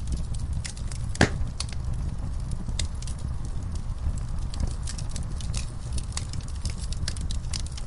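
Wood fire burning in a fireplace: a steady low rumble of flames with irregular crackles and pops, one louder pop about a second in.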